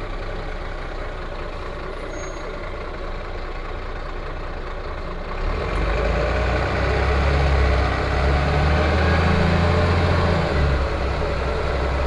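Van Hool A320 city bus heard from inside the passenger cabin: the diesel engine runs quietly at first, then about five and a half seconds in it grows louder and holds a strong low drone.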